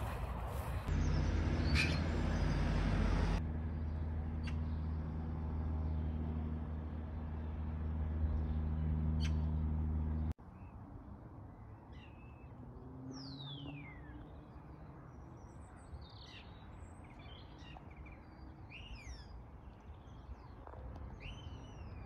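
A steady low drone made of a few evenly spaced low pitches, which cuts off suddenly about ten seconds in. After it, small birds chirp and call, with a long falling whistle.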